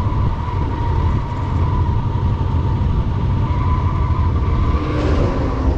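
1968 Buick Skylark engine running, heard from aboard the car, with a steady high whine over the low engine sound. The engine is running hot with no cooling fan and has been boiling coolant out of the radiator.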